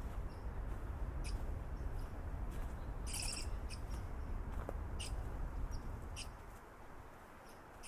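Footsteps crunching along a leaf-strewn forest path, about one every second, over a steady low rumble that fades near the end. A short high call cuts in about three seconds in.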